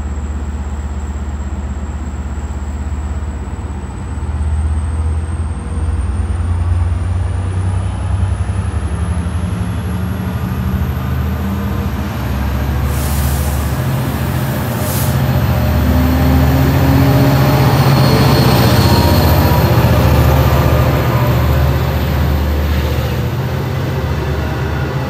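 Long Island Rail Road diesel locomotive hauling a train of bi-level coaches past: a steady low engine drone that grows louder as the locomotive draws near and goes by, then the coaches rumbling along the rails. Two short hisses come about halfway through.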